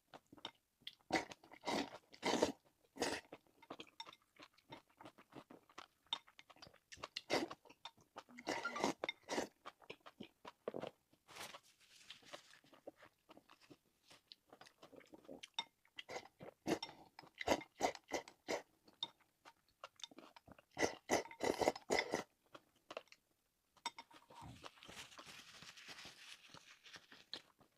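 A person chewing and crunching food close to the microphone: irregular crisp crunches and wet chewing in clusters, with a softer hissing stretch near the end.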